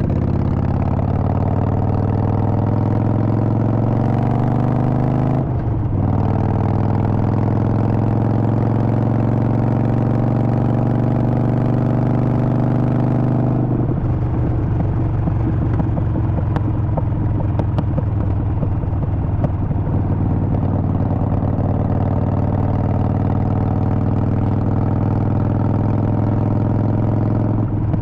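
Harley-Davidson Sportster Forty-Eight's air-cooled V-twin under way, its note climbing as it accelerates through two gears with a short break for the shift about five seconds in, then running steadily from about halfway.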